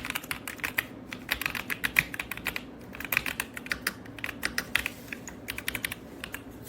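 Typing on an RK Royal Kludge S98 mechanical keyboard, stock and unmodified: quick runs of key clacks in several bursts with short pauses between them.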